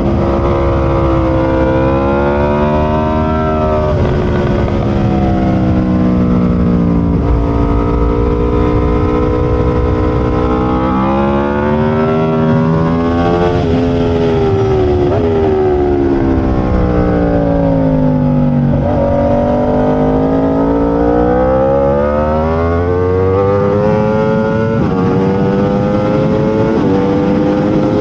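Aprilia RSV4's V4 engine at race pace. Its pitch climbs through the gears with sudden drops at each upshift, and falls in long slides when braking and downshifting into corners before winding up again.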